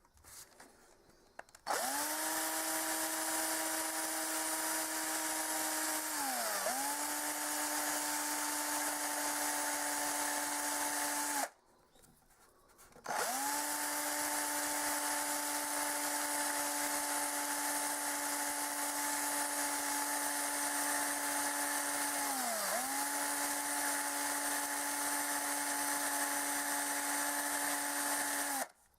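Small electric power tool motor running at a steady high speed in two long runs with a short stop between them. Its pitch sags briefly once in each run, as if the tool is pressed into the work.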